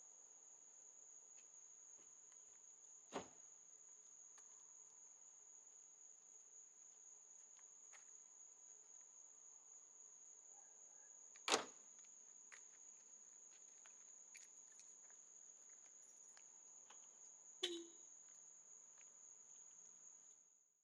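Crickets chirping as one steady, high-pitched trill, with three sharp clicks, the second the loudest. The sound fades out at the very end.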